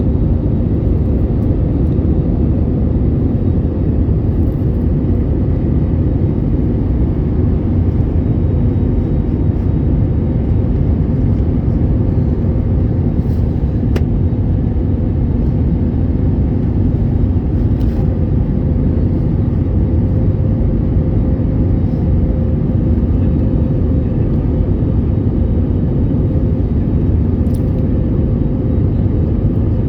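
Steady low rumble of a Boeing 787-8 airliner heard from inside the passenger cabin, engines and airflow running with a faint steady hum and a few light ticks.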